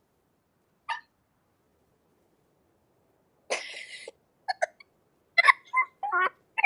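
A person's voice in short, abrupt bursts: a brief sound about a second in, a breathy rush of air a little past halfway, then a quick run of choppy vocal sounds near the end.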